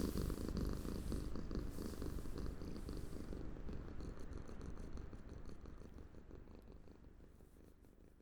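Cat purring, a steady low rumble that slowly fades away, the purr of a contented cat being petted and drifting off to sleep.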